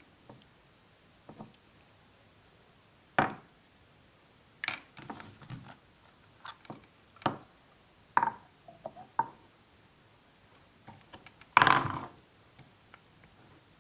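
Hands working through slime and small plastic toy figures: scattered short knocks, taps and clicks at irregular intervals, with a louder, longer handling noise about three-quarters of the way through.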